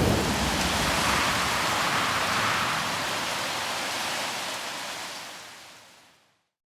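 Blizzard wind blowing, a steady rushing hiss with low buffeting on the microphone at the start; it fades out to silence near the end.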